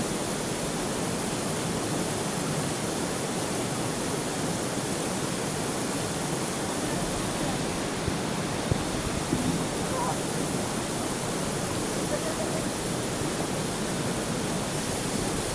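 Steady rushing of flowing river water, an even hiss with no pauses.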